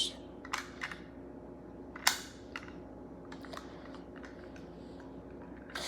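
A few light clicks and taps of a plastic toy car being handled, with one sharper knock about two seconds in.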